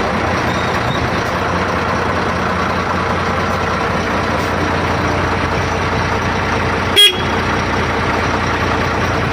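Motor boat engine running steadily under way, a constant drone. About seven seconds in, a single brief sharp blip cuts across it.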